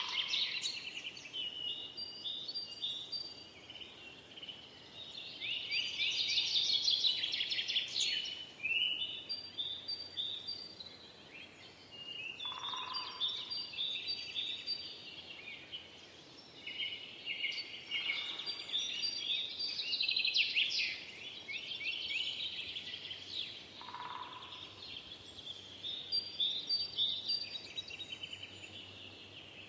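Several songbirds singing at once in a dense forest chorus of rapid chirps and trills, swelling and easing every few seconds. A lower, shorter call cuts in twice.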